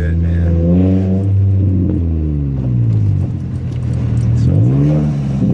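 Nissan Sentra SE-R four-cylinder engine running with no exhaust past the header (straight header). The revs climb in the first second, ease down, then climb again near the end.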